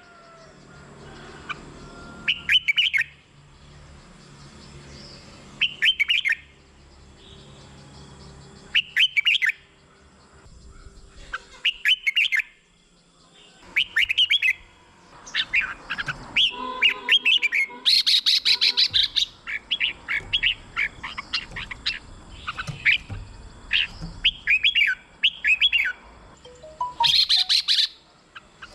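Red-whiskered bulbul singing. Short, quick whistled phrases come about every three seconds, then give way about halfway through to a denser, near-continuous run of song.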